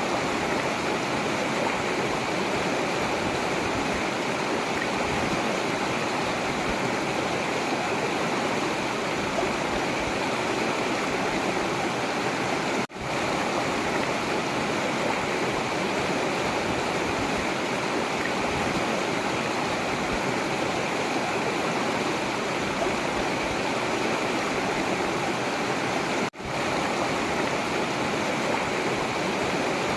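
Forest river water flowing steadily, an even rushing sound. The sound cuts out for an instant twice, about 13 and 26 seconds in.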